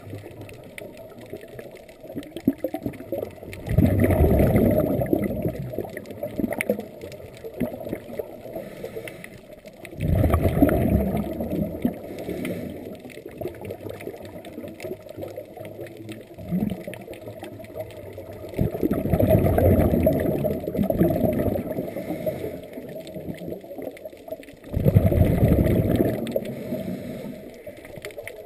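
Scuba diver's regulator exhaling underwater: four gurgling bursts of exhaust bubbles, one breath every six to nine seconds, with quieter water noise between them.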